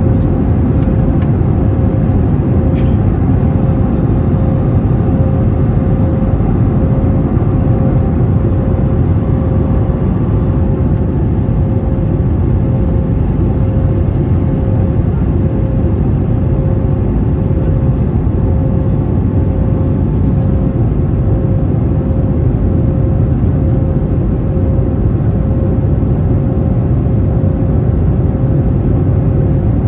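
Airbus A321neo engine and airflow noise heard at steady power, a constant low rumble with a steady hum on one note.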